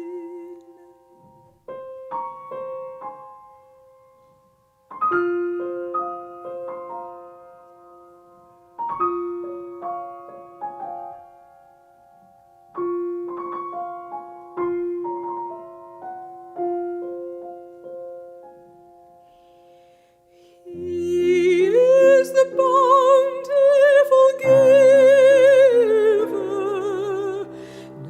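A solo piano plays a slow passage of spaced chords, each struck and left to fade. About three-quarters of the way through, a soprano voice enters and sings loudly with wide vibrato over a fuller piano accompaniment.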